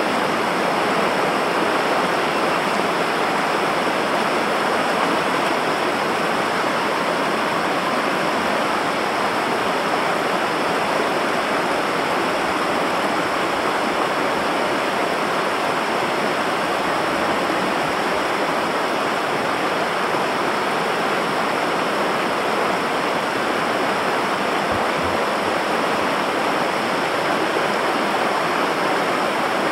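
Steady rush of river water tumbling over rapids or a waterfall: an even, unbroken roar of white water.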